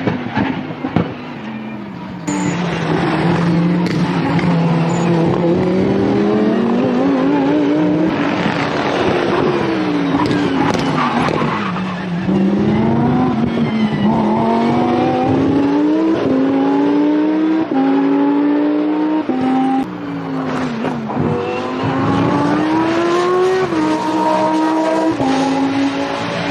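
Lamborghini Essenza SCV12 race car's V12 engine at full throttle on track. Its pitch climbs in steps through the upshifts, drops sharply under braking about twelve seconds and again about twenty seconds in, then climbs through the gears again.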